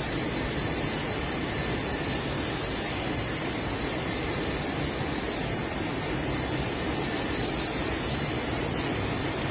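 An insect trilling: a steady run of high-pitched pulses, about five a second, in three bouts a few seconds long, over a steady outdoor hiss.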